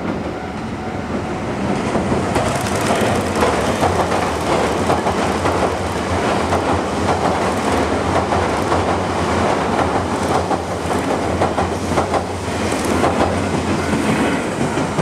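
Nankai Main Line electric train running past: a steady rumble with a fast clatter of wheels over the rail joints.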